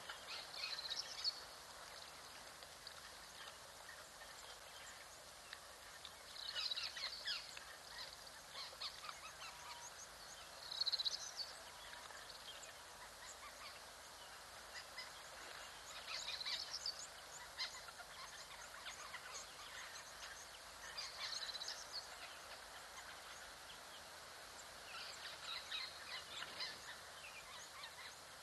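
Birds calling in short chattering bursts, about six of them, one every four to five seconds, over a faint steady outdoor hiss.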